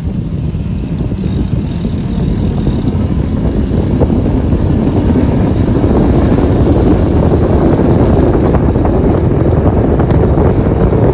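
Wind buffeting the microphone of a moving bicycle rider, a loud rumbling rush that grows louder and fuller over the stretch, as from picking up speed.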